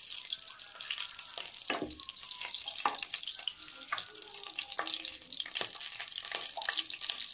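Cumin seeds sizzling in hot ghee in a kadhai: a steady frying hiss with many small crackling pops, the seeds spluttering as they toast for a tempering.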